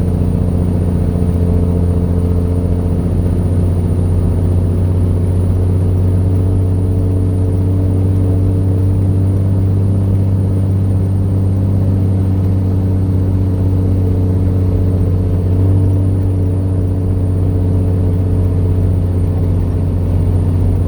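Vehicle engine and road noise heard from inside the cab while driving, a steady low drone that rises slightly in pitch about three quarters of the way through.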